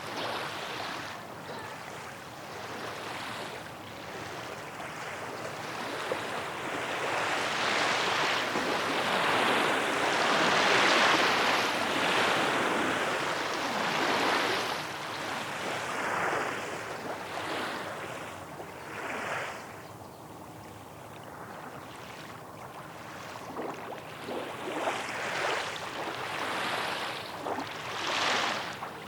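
Small waves washing up on a shore in repeated swells, the loudest building about ten seconds in, then several shorter washes near the end.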